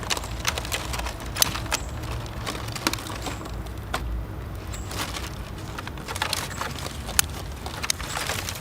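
Dry branches and dead wood snapping and crackling in irregular sharp cracks, a few louder than the rest, over a steady low rumble.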